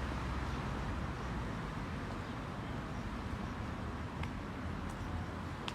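Outdoor ambience: a steady even rush of background noise over a low rumble, with a couple of faint clicks near the end.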